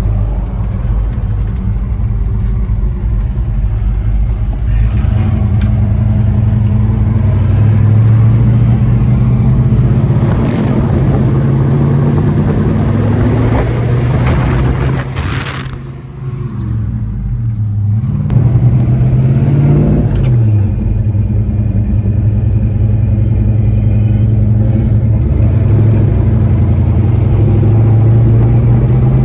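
1968 Chevelle SS's 396 big-block V8 driving on the road, its pitch rising several times as it accelerates through the gears. About halfway through it briefly drops off, then pulls up again.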